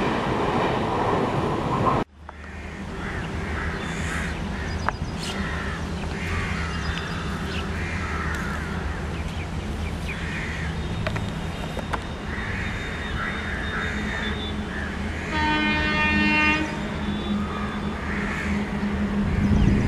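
Freight wagons clattering past for the first two seconds, cut off suddenly. Then an Indian Railways electric locomotive hauling a freight train approaches with a steady low hum, against rain and scattered bird calls, and sounds its horn once for about a second and a half near the end.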